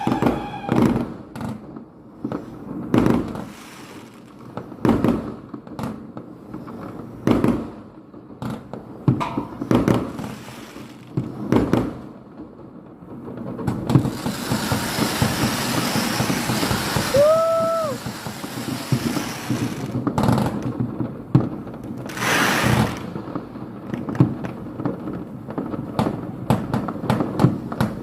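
Firecrackers and fireworks going off in irregular sharp bangs every second or two, with a stretch of dense rapid crackling about halfway through and another loud burst shortly after.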